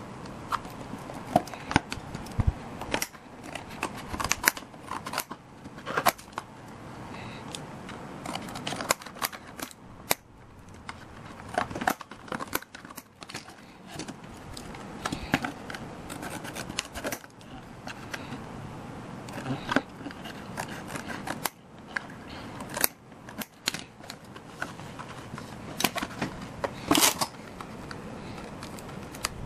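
Scissors cutting paper: irregular sharp snips, with paper handled and rustled between them.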